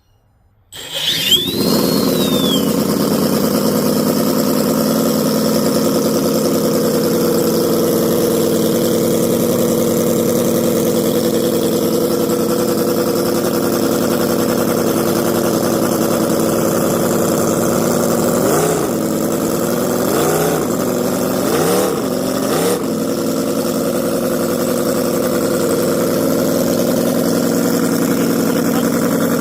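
Sports car engine starting about a second in, then idling steadily. About two-thirds of the way through, four quick throttle blips each raise the revs briefly before the engine settles back to idle.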